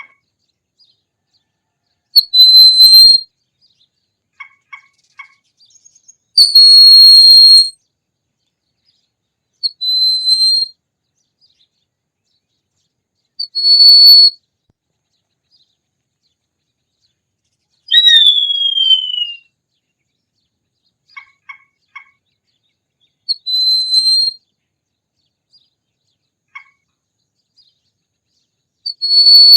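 Hawk calling: a series of about seven high screeches spaced several seconds apart, each about a second long, one near the middle sliding down in pitch. Between some calls come soft clusters of short ticks.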